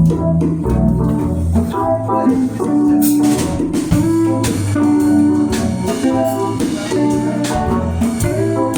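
Live band playing an instrumental passage: guitar and bass over a drum kit, with cymbal crashes about three and four seconds in.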